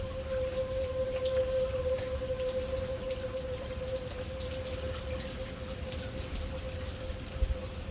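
Rain falling, with individual drops ticking on a nearby surface over a low rumble. A steady tone runs underneath.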